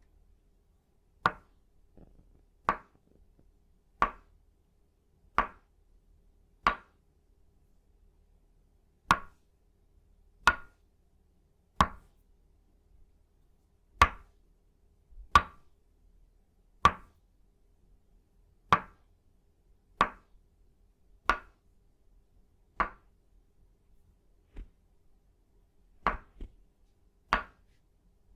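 Tok Sen massage tools of itaúba wood, a wooden mallet (khon) striking a wooden peg (lim): slow, even wooden knocks about every second and a half, a few of them followed by a lighter tap.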